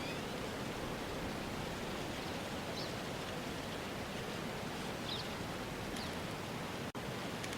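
Steady, even outdoor ambience hiss with a few faint, brief high chirps scattered through it; the bed cuts out for an instant near the end.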